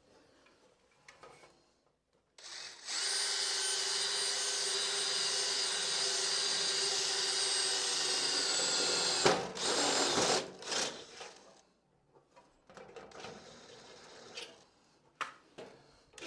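Power drill running at a steady speed for about seven seconds, an even whine with several steady tones, then stopping abruptly. A shorter burst follows, then faint clicks of handling.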